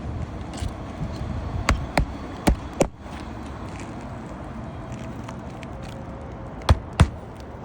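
Sharp knocks or taps, mostly in pairs, about four in the first three seconds and two more near the end, over a steady low rumble.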